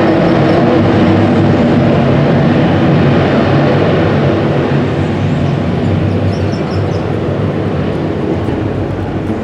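Commercial airliner's jet engines at takeoff power: a loud, steady roar with a low drone under it. It fades gradually from about four seconds in.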